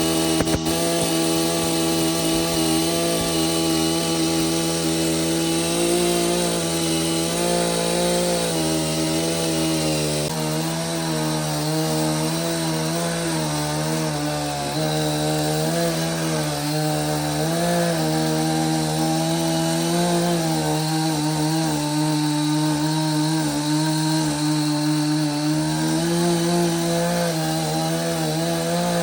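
Chainsaw running under load, cutting wood, its steady pitch dipping and wavering slightly as the cut bites.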